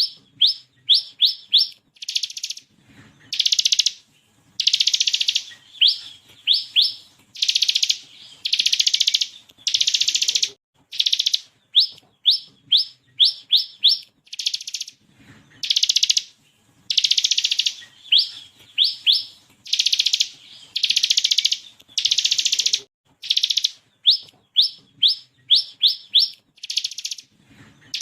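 Bar-winged prinia (ciblek) singing steadily: short dense buzzing rattles alternate with quick runs of three to five sharp rising whistled notes, over and over.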